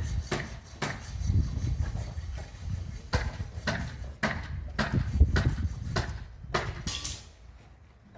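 Hand tools knocking and scraping on a building site, in irregular strokes about one to two a second over a low rumble. The strokes stop about a second before the end.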